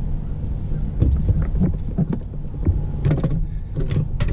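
Boat motor running low and steady while trolling, with scattered clicks and knocks of fishing rods and reels being handled as a catfish is reeled in.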